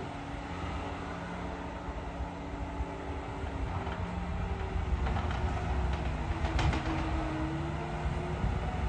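Engine of heavy equipment running steadily, a low throbbing hum with a whine that wavers slightly in pitch. A few light clicks come about five to seven seconds in.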